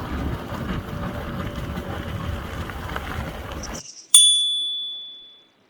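Outdoor wind and road noise for about four seconds, cutting off suddenly into silence. A single bright bell-like ding then rings out and fades over about a second and a half.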